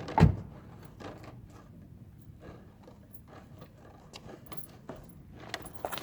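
A loud thump about a quarter second in, then scattered light clicks and knocks of parts and tools being handled, busier near the end.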